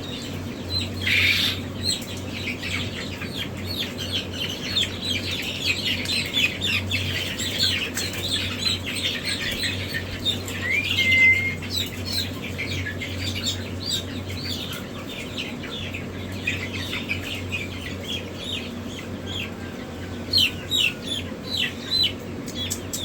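A crowd of young chicks peeping continuously, many short falling chirps overlapping, over a steady low hum.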